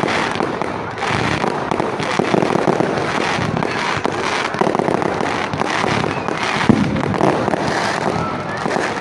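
Fireworks going off in a dense, continuous barrage of rapid bangs and crackles with no pauses.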